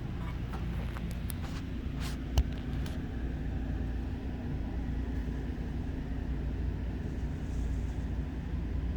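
Steady low machine hum, the RV's air conditioner running. A few light clicks and one sharp knock about two and a half seconds in.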